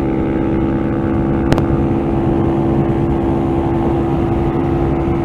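Motorcycle engine running at steady high revs, its pitch held constant, over a dense low rumble, with one sharp click about a second and a half in.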